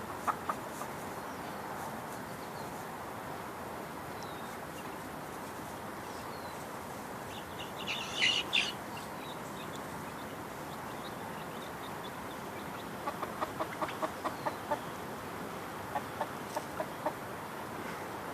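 Backyard chickens clucking in short quick notes, with one louder, higher call about halfway through, over a steady outdoor hiss.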